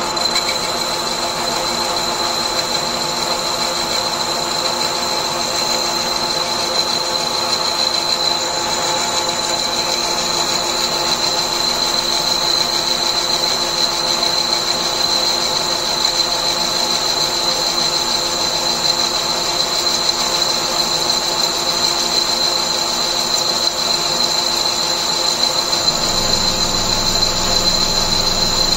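Hand-made lathe running: a steady mechanical whine with a strong high-pitched tone over a band of lower tones. A lower hum joins near the end.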